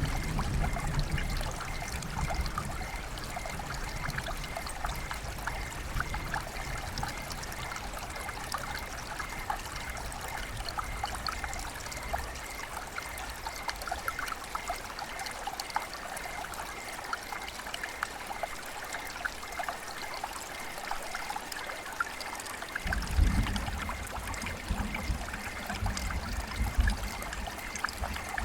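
River water flowing and trickling, a steady rush dotted with many small splashes. A low rumble underneath fades out over the first several seconds and comes back near the end.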